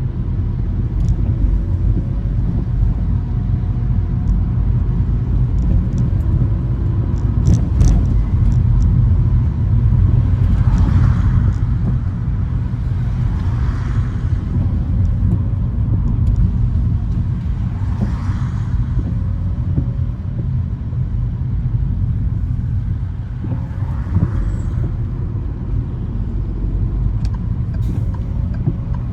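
A car driving on rain-wet city streets, with a steady low road and engine rumble. A swishing hiss swells every few seconds, and there are a few faint clicks.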